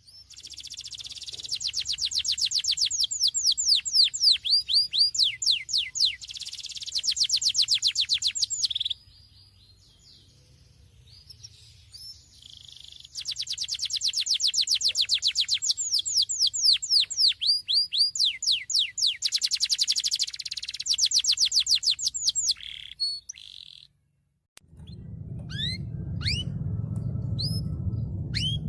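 Domestic canary singing long phrases of rapid rolling trills, with a first phrase ending about nine seconds in and a second running from about thirteen to twenty-three seconds. After a brief break near the end, the song gives way to scattered short, sharp chirps over a low hum.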